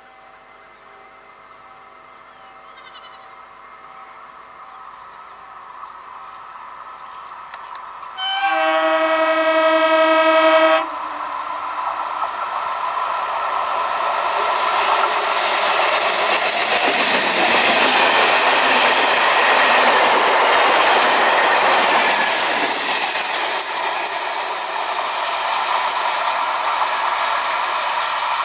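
Electric multiple unit (EMU) local train sounding one long horn blast of about two and a half seconds, then approaching at speed. The sound of wheels on rails builds up and stays loud as the train runs past.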